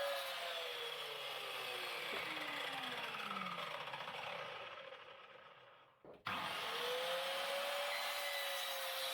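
DeWalt table saw running, then switched off, its motor and blade winding down with a falling whine that fades over several seconds. About six seconds in it is switched back on and quickly spins up to a steady running pitch.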